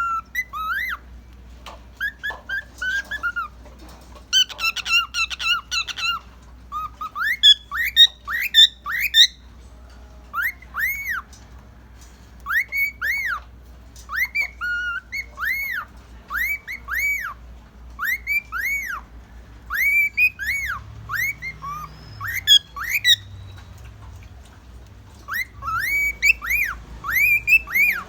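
Male cockatiel whistling its song: a long run of short rising-and-falling whistled notes, about one or two a second, with a few brief pauses and some harsher chirps mixed in.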